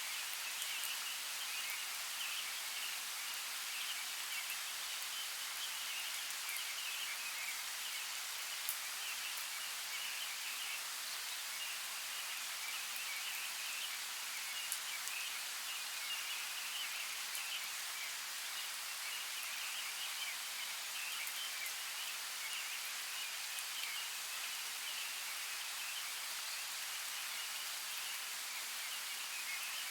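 Forest creek running, a steady hiss of water with a fluttering higher texture and a few faint ticks.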